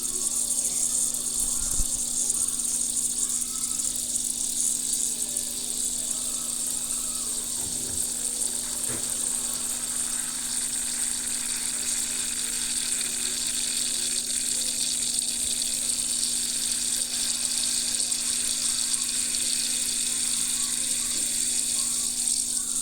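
Dry ice squeaking and chirping, a continuous high-pitched chatter that sounds like small birds, with a steady low hum underneath.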